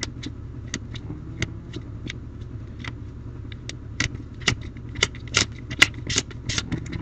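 Yu-Gi-Oh! trading cards being handled: a string of irregular sharp clicks and flicks, coming faster and louder in the second half, over a steady low hum.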